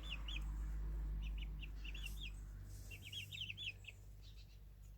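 Young chickens cheeping: several quick runs of short, high peeps. A steady low rumble runs underneath and fades near the end.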